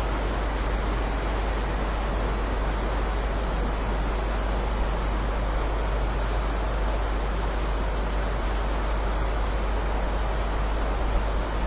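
Steady heavy rain: an even, unbroken hiss with a deep rumble underneath and no separate drops or thunder standing out.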